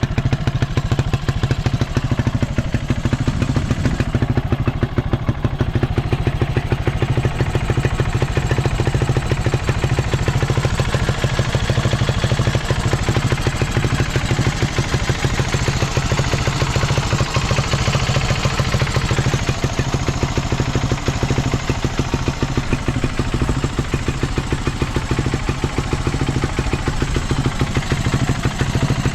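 Early Honda XL250S's air-cooled single-cylinder four-stroke engine running steadily at a constant level, with a rapid even firing beat and some mechanical clatter; the seller calls it free of abnormal noise.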